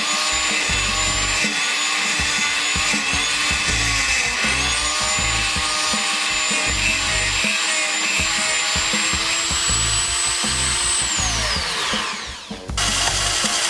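An electric power tool running with a steady high whine, switched off near the end so that its pitch falls away as the motor winds down; another noise starts just after. Background music with a steady beat plays underneath.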